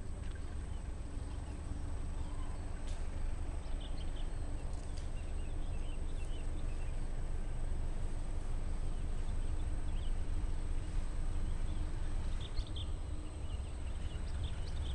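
Distant diesel-electric locomotive hauling a passenger train on its approach: a low rumble with a faint steady hum, growing slowly louder as the train draws nearer.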